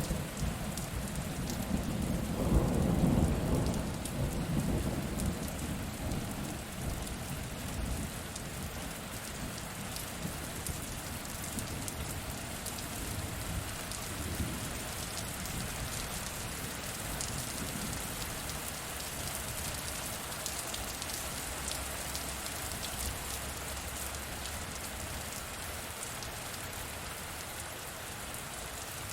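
Steady rain falling, with a low roll of thunder that swells about two to four seconds in and then fades, leaving only the rain.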